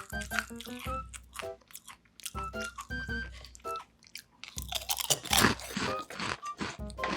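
Close-miked crunching and chewing of homemade fried shrimp chips, a string of crisp bites that comes thickest about five to six seconds in, over light plinking background music.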